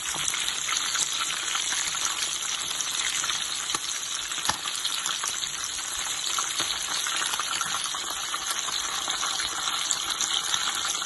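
Egg-battered chicken lollipops shallow frying in oil over medium-low heat: a steady sizzle, thick with fine crackling and a few sharper pops.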